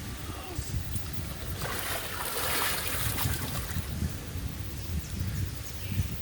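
Water splashing and sloshing around a swimmer's camera, with a low buffeting rumble throughout and a louder rush of splashing about two to three seconds in.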